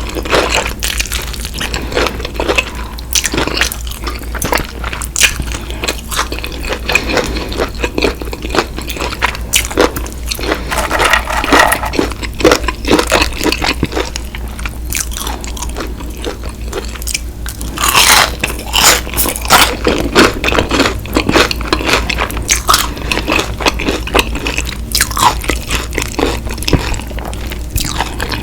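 Close-miked biting and chewing of crispy fried chicken, with a steady stream of crunches and crackles and louder bursts of crunching twice along the way.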